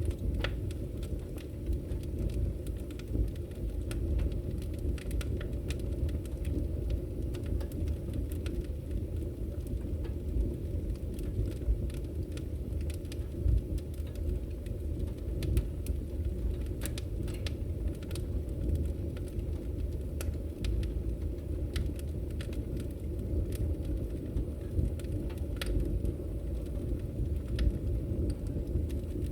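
Burning firewood crackling, with many short sharp pops at irregular intervals over a steady low rumble.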